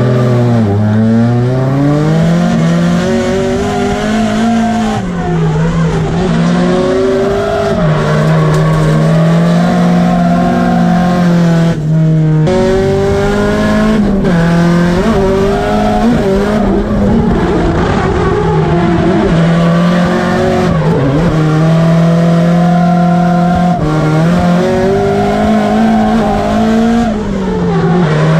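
Drift car's engine heard from inside the cabin, revving hard through a drift lap: the pitch drops and climbs again several times, with a sharp drop about twelve seconds in, and holds steady at high revs for stretches of a few seconds while the car slides. Tyre squeal runs under the engine.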